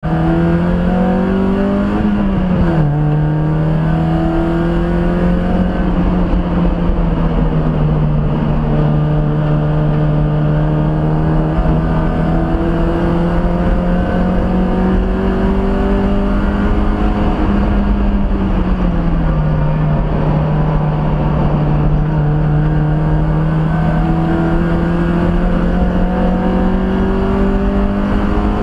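Mazda Miata race car's four-cylinder engine running under throttle, heard from inside the cabin. Its pitch climbs, drops sharply about three seconds in, dips again about two-thirds of the way through, then climbs slowly again.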